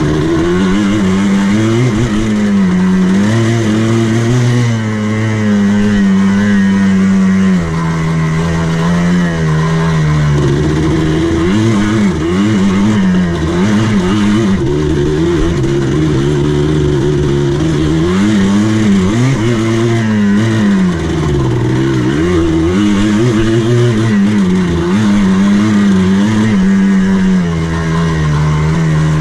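Buggy engine running as it is driven around a dirt course, heard from the driver's seat; its pitch rises and falls over and over with the throttle, with longer steady stretches in between.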